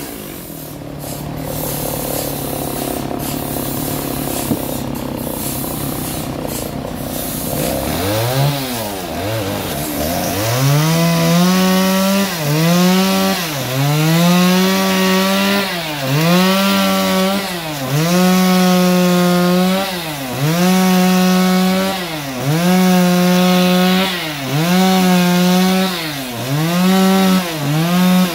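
Sawmill band saw running through a trembesi log. A steady hum for the first several seconds, then the machine's pitch repeatedly sags and recovers about every two seconds.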